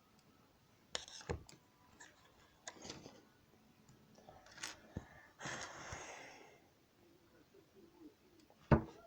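Lego pieces and packaging being handled: scattered clicks and knocks, a rustle lasting about a second a little past the middle, and a sharp knock near the end.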